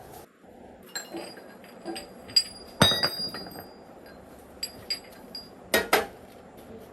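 Hard metal objects clinking and knocking against each other, like tools and small parts being handled, in about nine separate sharp strikes. The loudest is about three seconds in and rings briefly.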